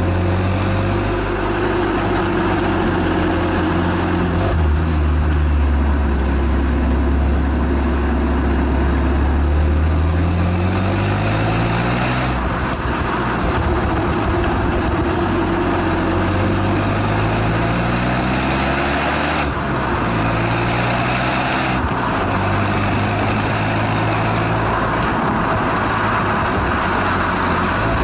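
Renault Megane Estate GT220's exhaust heard from the rear on a circuit: the engine holds a steady pitch, then climbs in revs under acceleration several times, each climb cut off by a sudden drop as it shifts gear, over steady road and wind noise.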